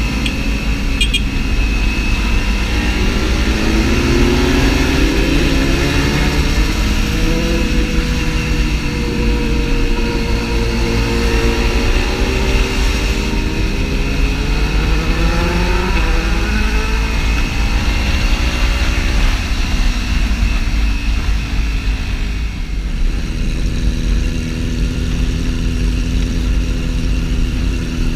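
Small parallel-twin sport motorcycle engine running under way, its pitch rising and falling repeatedly as the throttle and gears change. This is heard over a steady low rumble.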